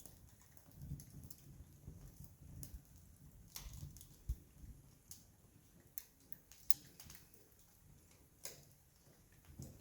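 Wood campfire crackling: scattered sharp pops at irregular intervals, about one a second, over a faint low rumble.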